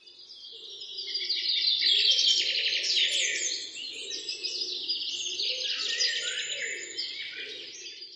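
Many birds chirping and singing at once, a dense chorus of quick overlapping chirps. It fades in over the first couple of seconds and fades down near the end.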